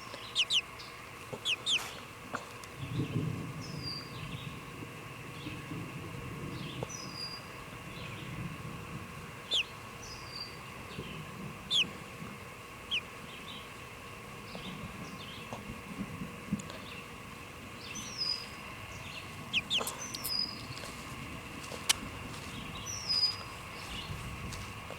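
Outdoor storm scene: distant thunder rumbles low several times while wild birds give short falling chirps and quick calls every few seconds, and a hen clucks.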